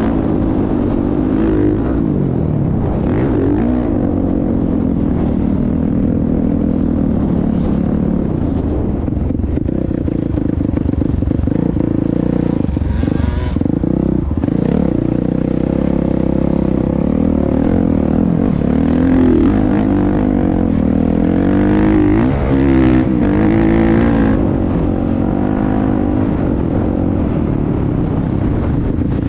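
Motocross dirt bike engine running continuously, its revs rising and falling repeatedly as it is ridden.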